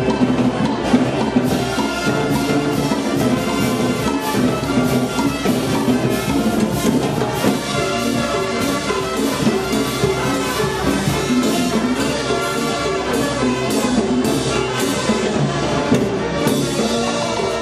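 A live brass band (Peruvian banda orquesta) playing, with trumpets and trombones carrying the tune over a steady percussion beat.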